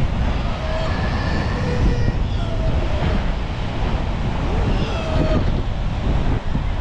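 Strong wind buffeting the microphone over the rush of surf, a steady rumbling noise. A few faint short pitched calls or voices come through about a second in, around three seconds and near five seconds.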